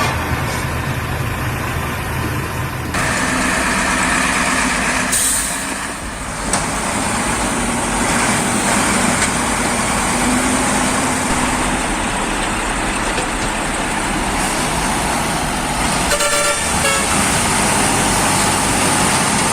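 Heavy truck engine running, with the sound shifting abruptly a few times. A horn sounds briefly about sixteen seconds in.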